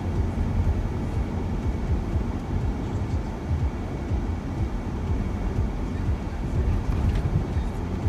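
Steady low rumble of road and engine noise from a moving shuttle van.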